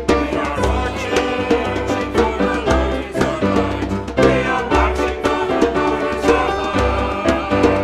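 Upbeat hymn music with a steady beat, instruments and singing.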